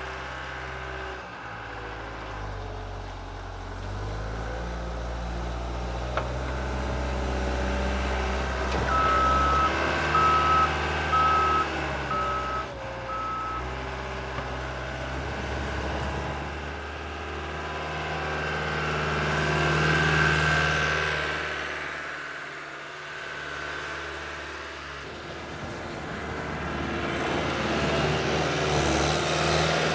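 Skid steer engine running under load, its level rising and falling as it works. A back-up alarm beeps about five times a third of the way in as the machine reverses.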